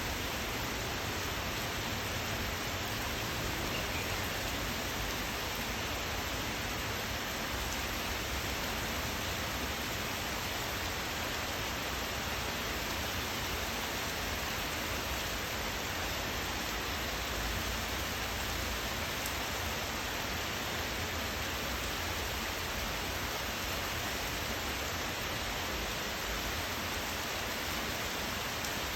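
Steady rain falling: an even, unbroken hiss in which no single drops stand out.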